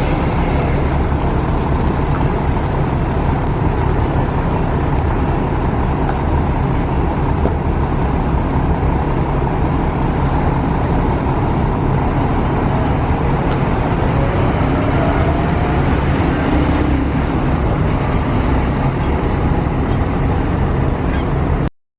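Scania K400 coach running, a steady low engine drone mixed with road noise, that cuts off abruptly near the end.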